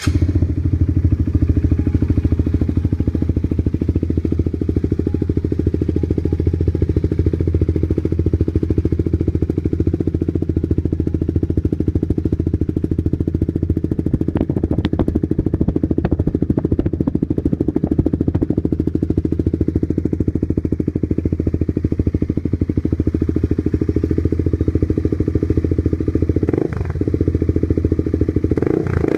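Honda CBR150R fuel-injected single-cylinder four-stroke engine running steadily through an aftermarket LeoVince exhaust. Its pitch shifts briefly twice near the end.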